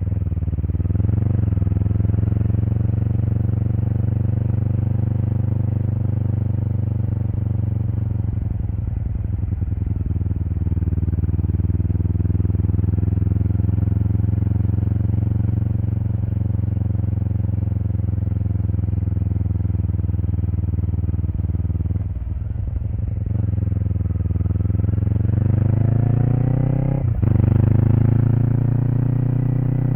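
Kawasaki Eliminator SE (EL400A) 398 cc parallel-twin engine heard through a BEAMS aftermarket header pipe and muffler while riding, its note swelling and easing with the throttle. Near the end it climbs under acceleration, with a quick gear change about three seconds before the end.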